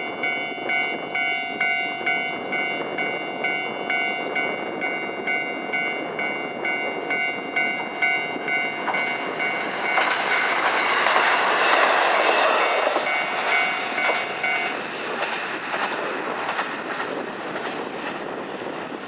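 Level-crossing warning bell ringing in a steady repeating pattern while a JR Hokkaido KiHa 54 series diesel railcar runs over the crossing, its wheels clacking on the rails. The train's noise rises about ten seconds in, is loudest around twelve seconds, and fades; the bell stops a few seconds after the train is loudest, as the crossing clears.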